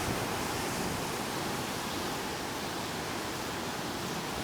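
Steady rushing noise of waves and tidal water at high tide, mixed with wind.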